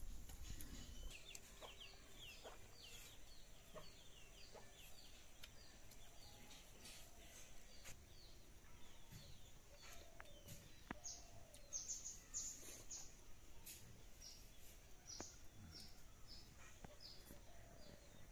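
Faint bird calls: many short, high falling chirps repeating throughout, over a quiet background with a few light clicks.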